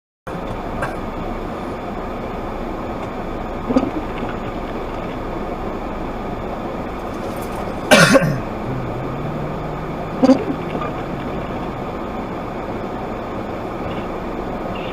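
Steady vehicle and road noise, with three brief sharp sounds, the loudest about eight seconds in.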